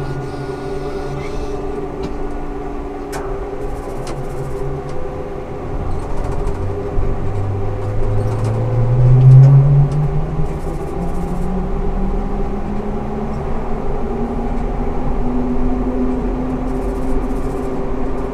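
Ikarus 280T articulated trolleybus's electric traction motor whining and rising in pitch as the bus accelerates. It is loudest about halfway through, then carries on as a higher whine that climbs slowly, over a steady road rumble.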